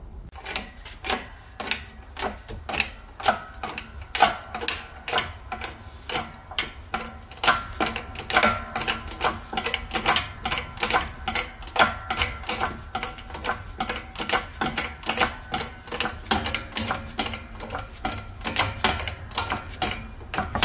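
Hammer blows on metal, about two to three a second with a short metallic ring after each, driving a new rubber bush into the lower control arm.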